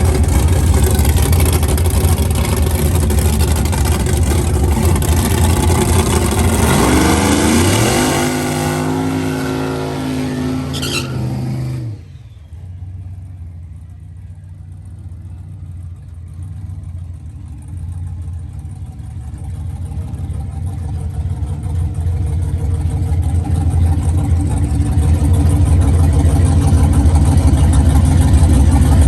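High-horsepower turbocharged full-size pickup racing down a drag strip: loud engine noise, then the engine's pitch climbs and steps through gear changes for a few seconds. About twelve seconds in it drops away sharply as the truck runs off down the track, and engine noise slowly builds again afterwards.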